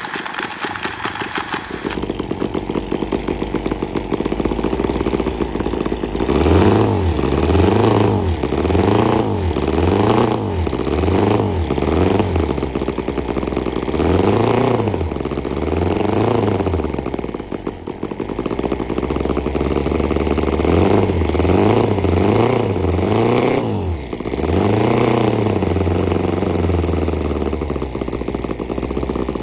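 Small gasoline horizontal V-twin model engine, a replica of the Victoria V35 Bergmeister motorcycle engine, running. It idles at first, then is revved up and down in quick blips about once a second, settles briefly, is blipped again several times, and returns to a steady idle near the end.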